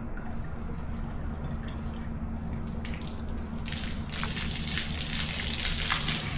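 Water from a garden hose with no nozzle, first scattered drips and spatters, then the flow swelling about two and a half seconds in into a strong spraying splash by about four seconds in. A steady low hum runs underneath.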